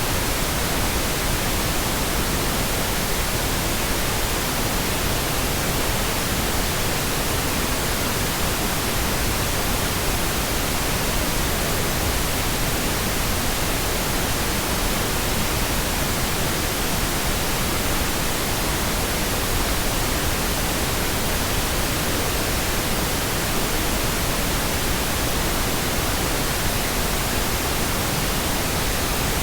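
Steady pink noise: an even, unchanging hiss across the whole range, with no events or changes.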